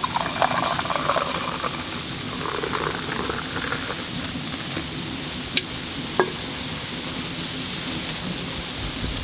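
Steady pattering hiss of heavy snow falling, with two sharp snaps a little past halfway.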